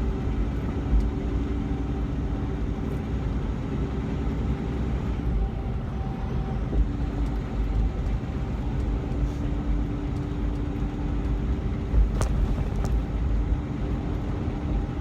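Semi-truck tractor running without a trailer, heard from inside the cab: a steady engine drone over road noise, with one sharp click about twelve seconds in.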